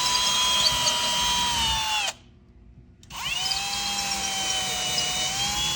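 Power drill boring a bolt hole in the wall for a TV mount, run at steady speed with a high motor whine, stopped about two seconds in, then started again about a second later at a slightly lower pitch.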